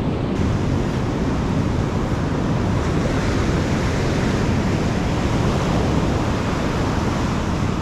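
Steady sound of ocean surf breaking on a beach, with some wind buffeting the microphone.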